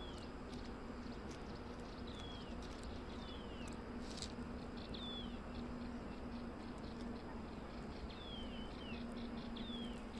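Short high chirps sliding downward, repeated several times at irregular intervals, from a bird calling, over a steady low hum and faint hiss. A brief tick about four seconds in.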